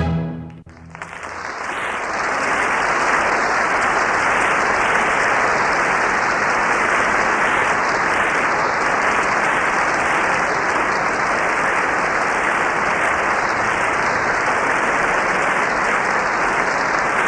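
The orchestra's final chord stops within the first second, then a large concert-hall audience applauds steadily.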